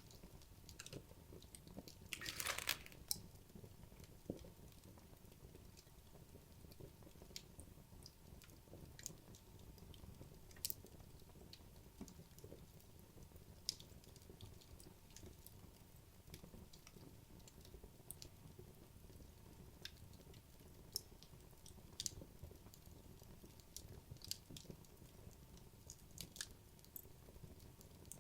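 Wood logs burning in a fireplace, crackling quietly with scattered sharp pops over a low steady hiss of the fire. A louder flurry of crackles comes about two seconds in.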